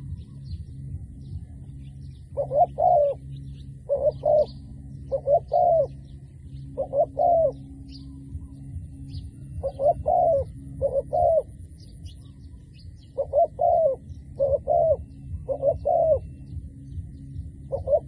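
Dove cooing over and over in short phrases of two or three coos, a phrase every second or two. Faint high chirps of small birds and a steady low hum run underneath.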